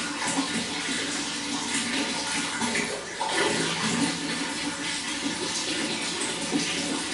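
Running water, a steady splashing and gurgling flow.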